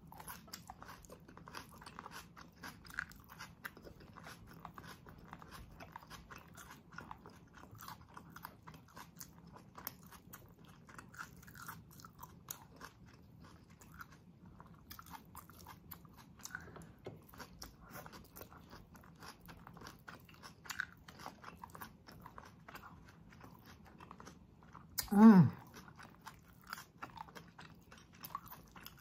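Close-up mouth sounds of someone chewing sisig and rice eaten by hand: soft, wet smacks and small clicks throughout. Near the end a brief voice-like sound, sliding down in pitch, is the loudest moment.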